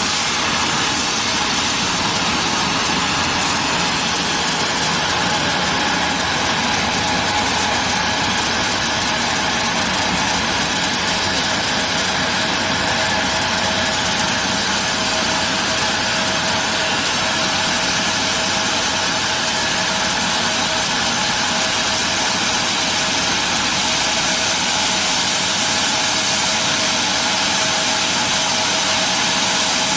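An engine running steadily with a constant whine over a dense even rumble, unchanging throughout.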